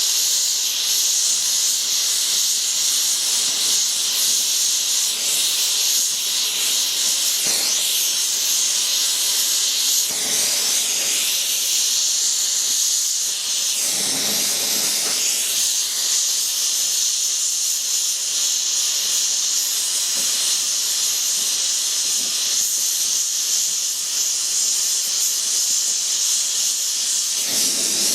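Oxy-fuel torch flame hissing steadily while brazing cast iron with brass rod, swelling briefly now and then.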